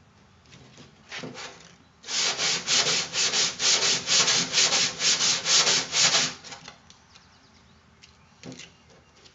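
Sandpaper being rubbed by hand over a car door's repair patch in rapid back-and-forth strokes, about four a second. A few strokes come about a second in, then a steady burst of strokes follows, then a few scattered strokes near the end.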